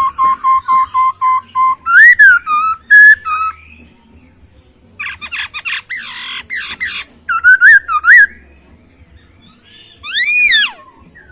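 Chinese hwamei (poksay Hongkong) singing. It opens with a quick run of about nine repeated notes on one pitch, then gives loud swooping whistles. After a short pause comes a dense burst of trills and varied phrases, and one loud rising-and-falling whistle near the end.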